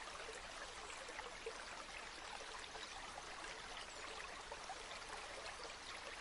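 River water flowing steadily, an even rushing hiss scattered with small splashes and trickles.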